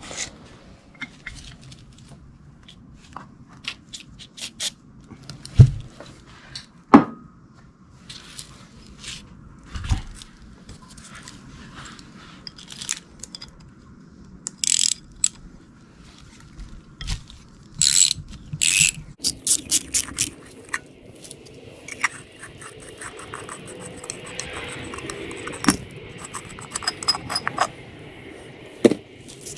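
Metal tools and starter-motor parts being handled on a workbench: scattered clicks, knocks and scrapes, with two loud knocks about six and seven seconds in. In the second half comes a denser run of small clicks with a scratchy hiss.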